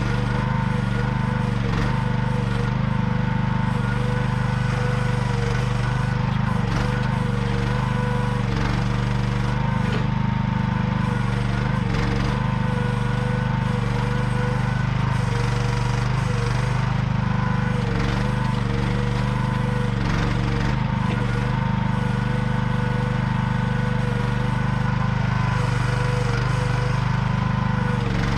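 AGT QH12R mini excavator running steadily, its small engine droning with a steady whine over it and a few faint knocks.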